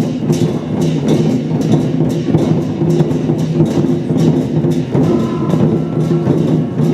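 Lion-dance percussion band playing drum, gongs and cymbals in a steady, fast beat of repeated strikes.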